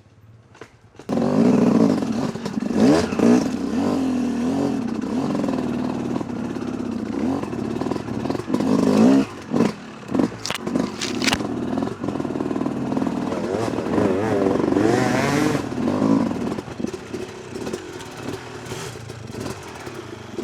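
Yamaha YZ250 two-stroke dirt bike engine revving up and down while riding over a rocky track, with clattering knocks as the bike strikes rocks. The engine sound starts suddenly about a second in.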